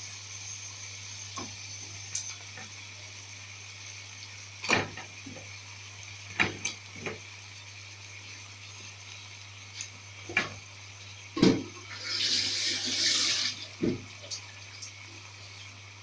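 Kitchen work sounds: several sharp knocks and clinks of utensils or dishes, with a short burst of water from a kitchen tap near the end.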